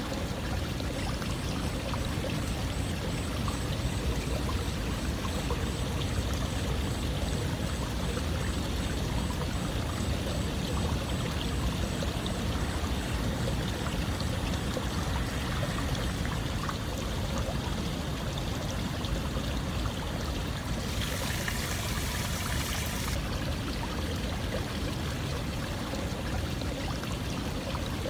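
Steady running water, a continuous pouring, stream-like rush used as white noise. About three quarters of the way through it turns brighter and hissier for a couple of seconds.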